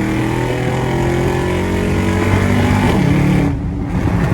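Straight-piped, naturally aspirated Mercedes-AMG V8 running at steady low revs with a heavy exhaust drone. There is a brief dip in level about three and a half seconds in.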